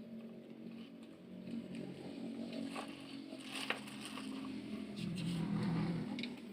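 Plastic toy trucks being handled and moved, with a few sharp plastic clicks and some scraping over a steady low hum that grows louder about five seconds in.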